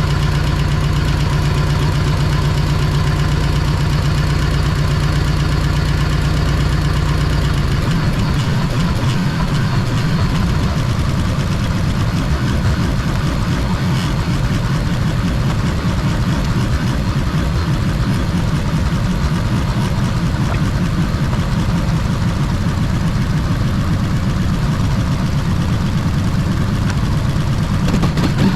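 Freshly rebuilt Harley-Davidson Evolution V-twin engine running at idle. About eight seconds in, its steady, even note changes to a rougher, uneven idle.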